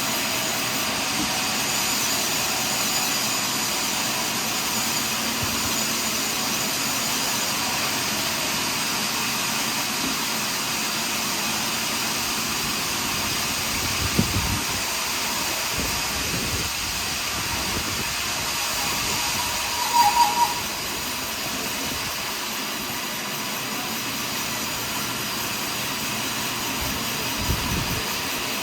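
Sawmill running steadily while cutting a large pine log. A few short knocks and one brief high squeak break through the steady noise.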